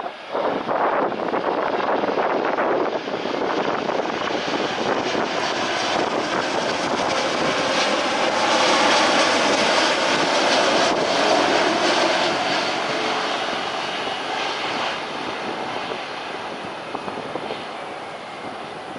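Jet airliner's engines going by, the noise swelling to its loudest about halfway through and then slowly fading away.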